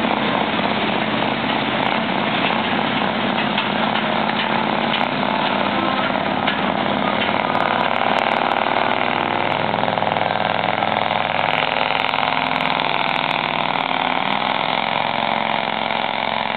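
Scania 142 V8 diesel truck engine running steadily at a low speed, its intake hose burst.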